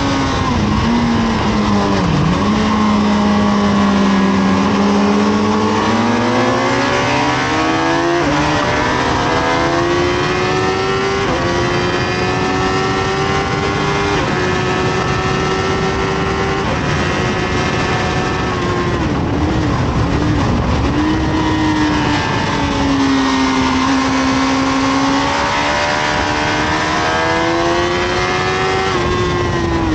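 Honda CBR1000RR (SC57) inline-four sportbike engine at full race pace, heard from onboard: the revs fall under braking, climb hard with upshifts about eight and eleven seconds in, hold high, then drop with downshifts and build again, over heavy wind rush.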